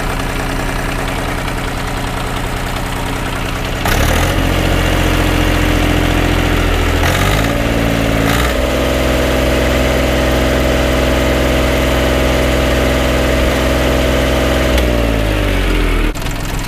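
Three-cylinder diesel engine of a mini-tractor revved from idle: the engine speed climbs in steps about 4, 7 and 8.5 seconds in, holds high and steady, then drops back to idle near the end.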